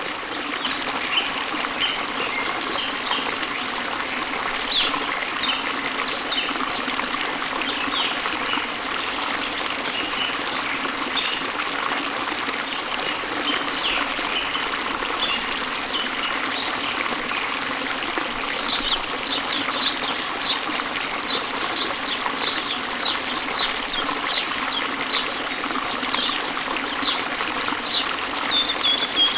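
Steady rush of running water with small birds chirping over it; the chirps come quicker and thicker in the last third.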